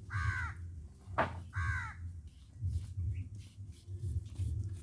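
A bird calling twice, two short calls with a rising-then-falling pitch about a second and a half apart, with a sharp tap between them. A low rumble runs underneath.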